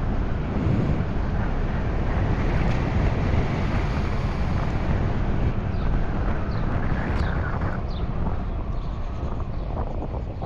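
Steady wind rushing over the microphone and road noise while riding a 96-volt electric motorcycle; there is no engine sound. The wind eases a little near the end.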